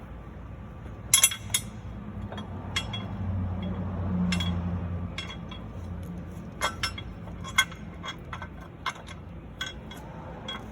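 Scattered sharp metallic clinks and taps as a steel bracket and its bolts are handled and seated in a car's engine bay. A low hum swells and fades in the middle.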